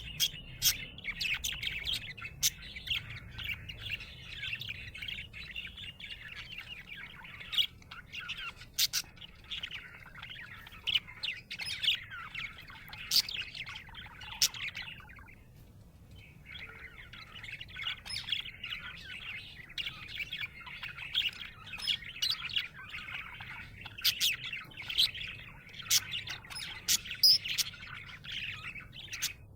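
Budgie (budgerigar) chirping in a busy, continuous stream of quick chirps, breaking off for a second or so about halfway through and then carrying on.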